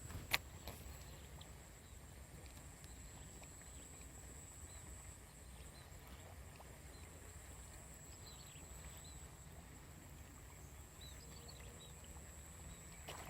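Quiet outdoor ambience: a steady high-pitched insect drone with a few faint bird chirps, over a low rumble. One sharp click comes about a third of a second in.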